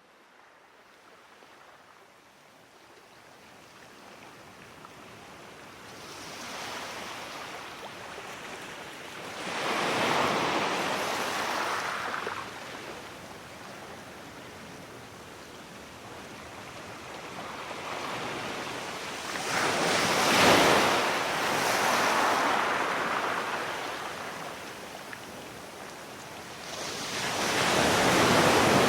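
Sea waves breaking on the shore: the surf starts faint and builds, with three loud breakers about ten seconds apart and a softer wash between them.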